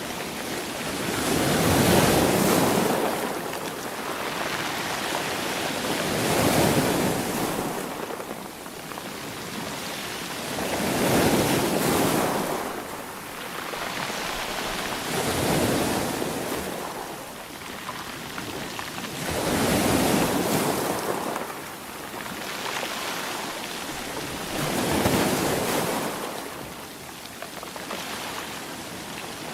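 Sea waves breaking, six of them, each swelling up and fading away about every four to five seconds.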